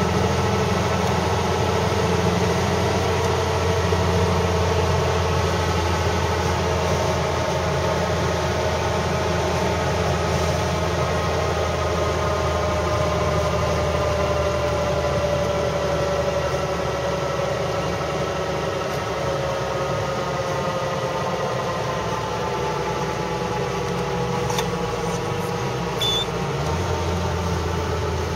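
Four-cylinder engine and tyre noise heard inside a classic Citroën DS cabin while it cruises on the open road. The engine tone runs steadily, then slowly falls over the middle stretch. A brief faint high chirp comes near the end.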